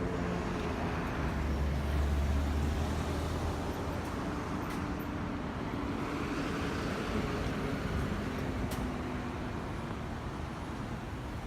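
Road traffic: motor vehicles passing on the street, with the low engine hum of one vehicle loudest about two seconds in.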